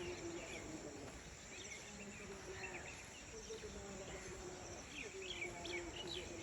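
Morning countryside ambience: a steady high insect drone with small birds chirping in short bursts, the chirps busiest and loudest about five seconds in. A faint wavering low tone sits underneath.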